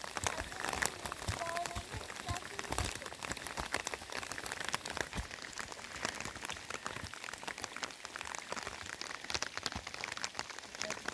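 Heavy rain falling, with many close, irregular raindrop ticks over a steady hiss.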